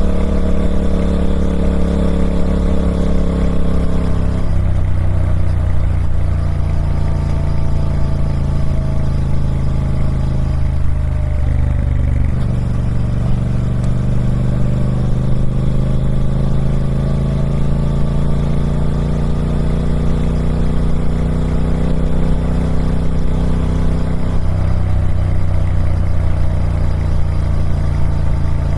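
Triumph Speed Twin 1200's 1200cc parallel-twin engine running through its stock exhaust, its pitch slowly falling and rising with the throttle: easing down in the first few seconds, dipping about twelve seconds in and climbing again, then shifting once more near the end.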